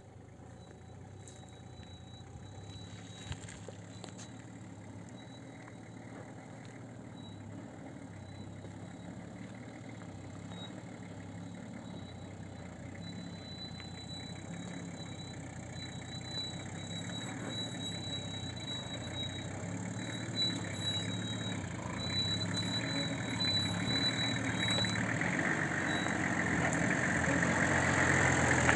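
Vehicle engine running at low revs while driving slowly down a steep, rough track, with a thin high whine above it. The sound grows gradually louder toward the end.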